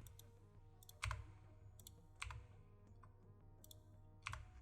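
A few isolated clicks of a computer keyboard, about a second apart, against near silence.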